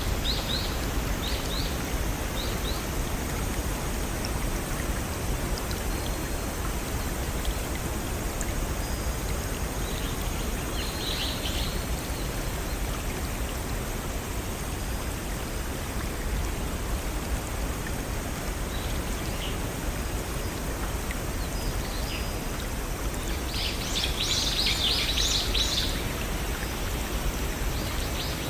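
Steady rushing of a small stream or waterfall, with birds chirping high above it now and then and a louder flurry of chirps about 24 seconds in.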